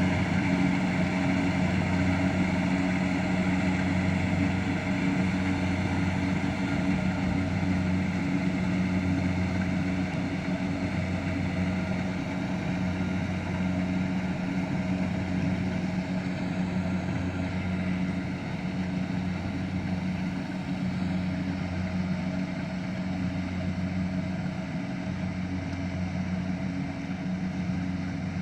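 An engine running steadily at constant speed, a low even drone that slowly grows a little quieter.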